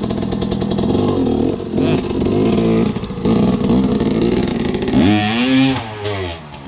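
Enduro motorcycle engine revving hard under load, its pitch rising and falling with the throttle, with a sharp rev up and back down about five seconds in before it fades near the end.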